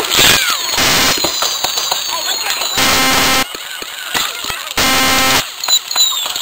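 Consumer fireworks going off close by, picked up by a cell phone's microphone: rapid crackling pops and whistling glides. Two short, flat buzzing tones come about three and five seconds in.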